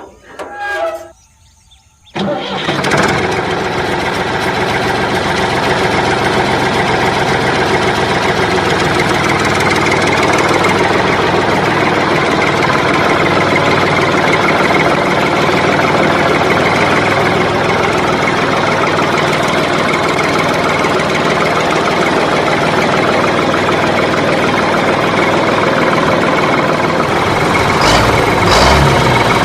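An engine starting abruptly about two seconds in, then running steadily and loudly, with a few louder knocks near the end.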